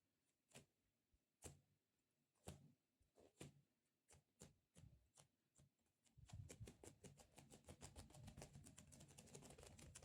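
Fingers tapping on a sticky squishy stress-relief toy: single taps about once a second, then from about six seconds in a fast, quickening run of taps.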